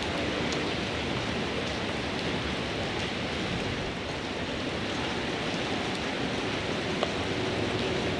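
Steady heavy rain from an approaching typhoon, with a few sharp ticks of close drops scattered through it.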